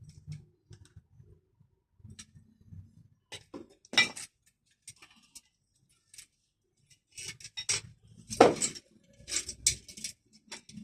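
Metal tools and parts clinking, rattling and knocking while a car's power window mechanism is worked on, with a sharper clank about four seconds in and a louder one about eight and a half seconds in.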